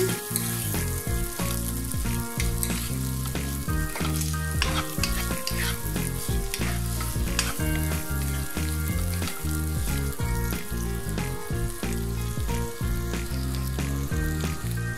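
Prawns shallow-frying in oil and ghee in a nonstick wok, sizzling and crackling, with a spatula stirring them and clicking against the pan.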